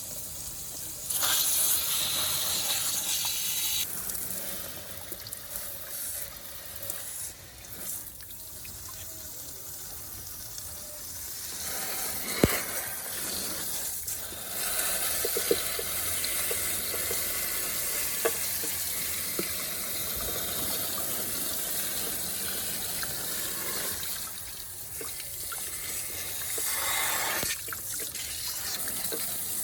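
Water running and splashing, its level shifting every few seconds, with a few sharp clicks in the middle.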